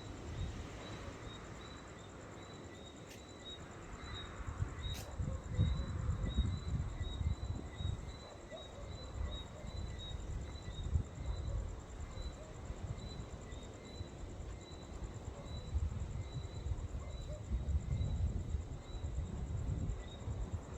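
Gusty wind buffeting the microphone in uneven low rumbles, over a thin, high insect chirp repeating about twice a second. Two sharp clicks sound a few seconds in.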